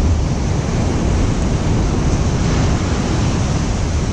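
Sea surf washing on the beach together with wind buffeting the microphone: a steady, loud rush of noise, heaviest in the low rumble.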